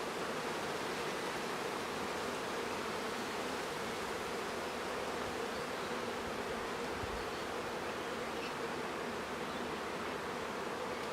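Honeybee colony buzzing: many bees make a steady, even hum around the opened hive and comb as it is being worked.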